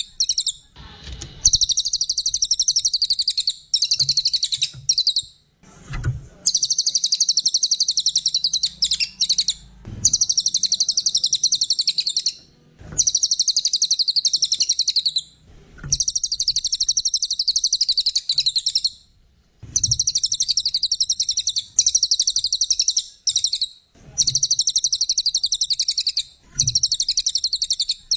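A cililin songbird singing at full song ('gacor'): long, very high, rapid chattering trills of about three seconds each, repeated about eight times with short pauses between them. Faint low knocks sound in some of the gaps.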